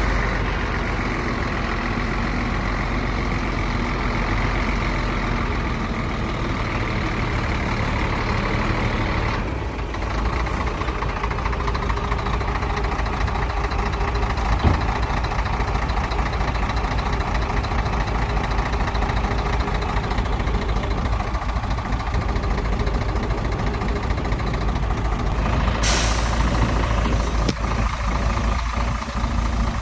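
Heavy diesel earthmoving machinery running steadily: a bulldozer and dump truck at work on fill. The sound changes abruptly about a third of the way in, and near the end a sudden hiss of air comes in, typical of a truck's air brake.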